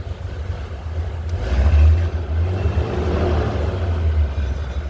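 A 1950 Bentley's engine idling on its first cold start after sitting several days, running a little rough because it is still cold. It swells louder for about a second, about a second and a half in, then settles back to a steady idle.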